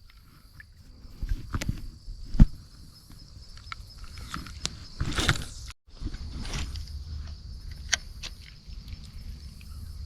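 Insects chirring steadily in a high, even drone. Over it come a few sharp clicks and knocks, the loudest about two and a half seconds in, and two short swishes a little after the middle.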